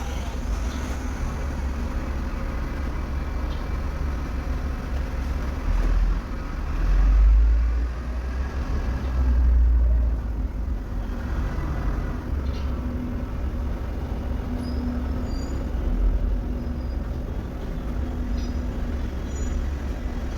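A vehicle engine running steadily with a low rumble, swelling louder twice, around seven and ten seconds in.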